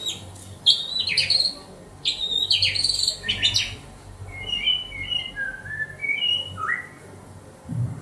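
White-rumped shama singing: two loud, rapid, chattering phrases in the first half, then a softer run of separate warbled notes. A short low knock comes near the end.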